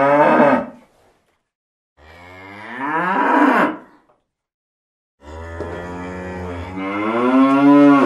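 Cow mooing: the tail of one moo, then a second of about two seconds, then a long moo of about three seconds that grows louder and climbs in pitch near its end.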